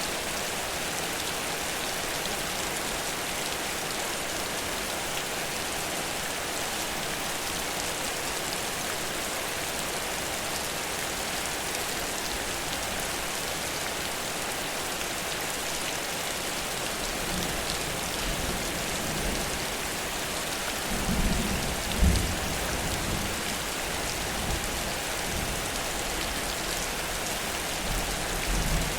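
Heavy rain falling steadily as a dense, even hiss. In the second half low rumbles of thunder come in, loudest about two-thirds of the way through and again near the end.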